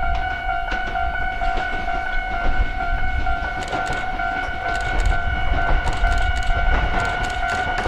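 Ichibata Electric Railway 7000 series electric train at a station: low rumble with a growing patter of clicks from the wheels and running gear, over a steady high electronic tone with overtones that holds throughout.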